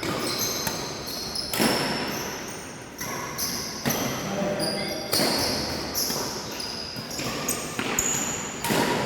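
Badminton rally in a reverberant sports hall: sharp racket strikes on the shuttlecock about once a second, echoing, with short high squeaks of court shoes between the hits.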